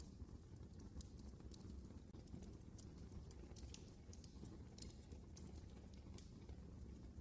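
Wood fire burning in a fireplace: faint, irregular sharp crackles and pops over a low steady rumble of the flames.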